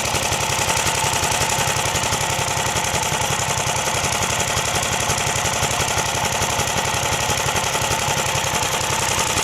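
Modified 13-horsepower Honda engine on a home-built garden tractor, running steadily with no mufflers fitted. It fires as an even, rapid pulse.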